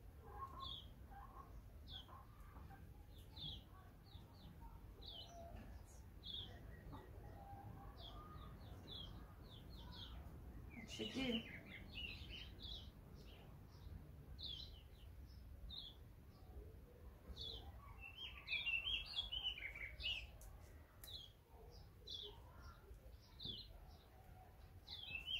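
Small birds chirping: short, high chirps about once or twice a second, with a quicker run of twittering about eighteen seconds in.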